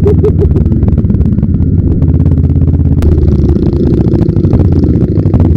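Kawasaki Ninja 650's parallel-twin engine and exhaust running at low road speed, a steady rapid pulsing beat. The note changes about three seconds in.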